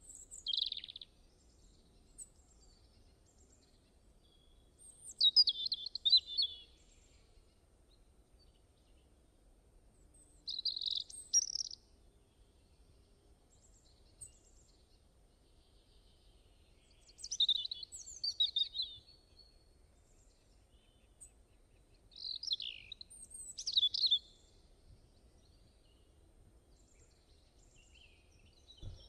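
A songbird singing short, quick, varied phrases, about one every five or six seconds, with quiet gaps between them.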